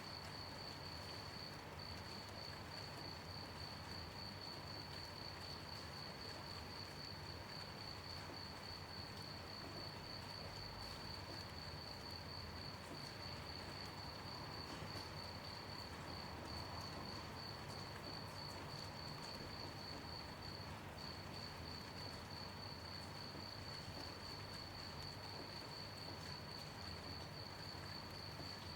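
Crickets chirping in a steady, unbroken high-pitched trill, over a soft even hiss of gentle rain.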